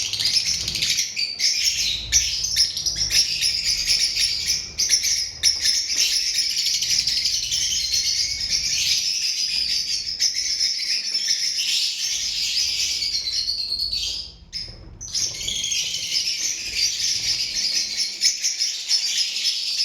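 A group of lovebirds chattering, a dense, continuous stream of high chirps and squeaks that briefly falls away about three-quarters of the way through.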